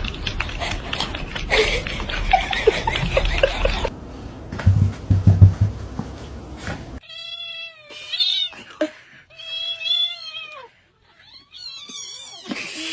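A cat meowing in a series of long, drawn-out calls that rise and fall in pitch, beginning about halfway through, after several seconds of rustling noise and low thumps.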